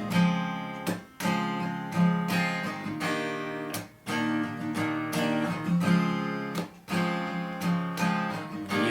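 Acoustic guitar strumming slow ballad chords with no singing. Strokes fall about once a second and the chords ring on between them.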